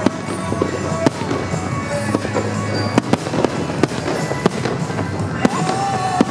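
Fireworks display with aerial shells going off in irregular sharp bangs, roughly two a second, over a continuous crackling haze. Music plays along with the show.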